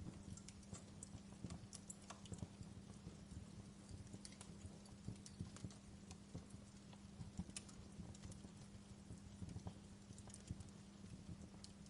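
Wood fire crackling softly, with irregular sharp pops and snaps over a steady low hum.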